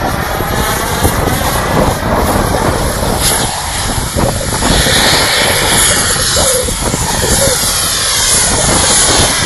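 Radio-controlled jet model's engine running loud and steady while hovering, its rushing sound sweeping up and down in pitch and growing brighter and hissier midway.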